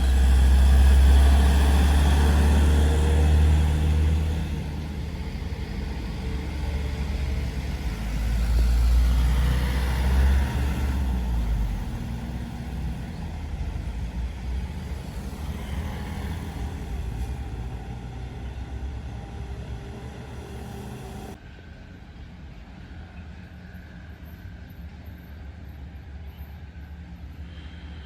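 Heavy trucks driving past on a road, their engines rumbling loudly in the first few seconds and again around ten seconds in, then fainter traffic noise that drops suddenly about two-thirds of the way through.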